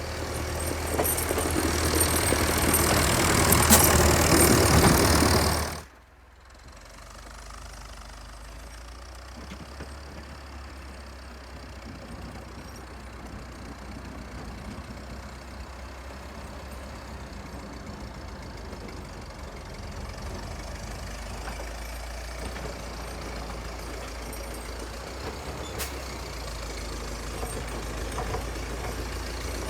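Vintage Volvo tractor engine running under load, loud and rising for the first few seconds. It cuts off abruptly, and a steadier, quieter engine hum follows.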